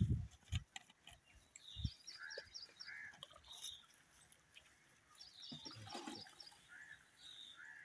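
Small birds chirping in short, quick repeated phrases, faint, with a few soft knocks in the first two seconds.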